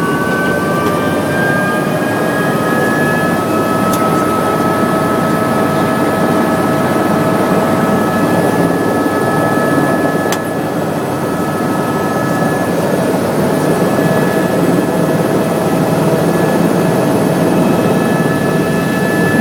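Tour helicopter's turbine engine and rotor noise, steady and loud, with a whine that rises a little in pitch over the first few seconds and then holds.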